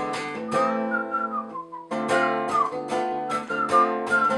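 Acoustic guitar strumming chords in the instrumental break of a bard song, with a whistled melody line over it. The strumming stops briefly about one and a half seconds in, then resumes.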